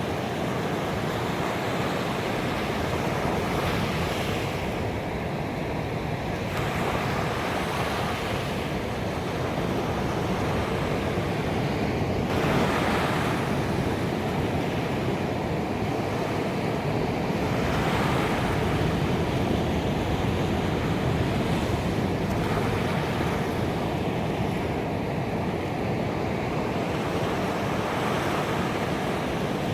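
Ocean waves breaking on a beach: a continuous wash of surf, with a wave surging in every four to five seconds.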